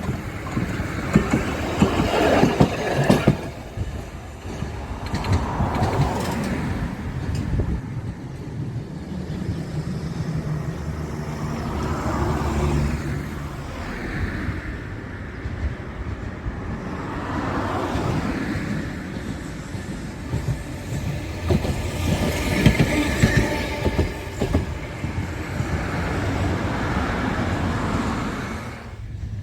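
A train running on the rails, its wheel noise swelling and fading every few seconds.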